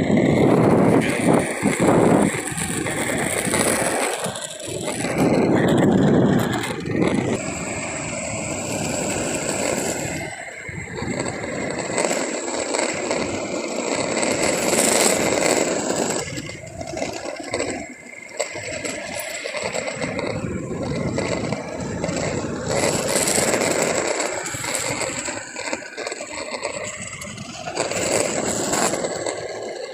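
Skateboard wheels rolling on pavement: a continuous rough rumble with scraping and rattling that swells and eases as the ride goes on, with a few brief drops.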